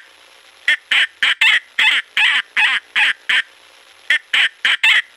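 Falcon calling: a rapid series of short, repeated calls, about three a second. The series starts under a second in and breaks off briefly a little before four seconds in before resuming.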